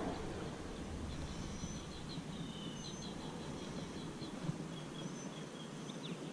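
Quiet outdoor ambience with a scattering of small, high bird chirps over a steady soft hiss.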